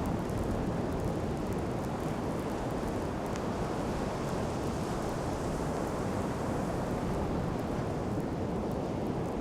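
Steady rush of sea surf and wind on the beach, with faint crackling from a wood bonfire.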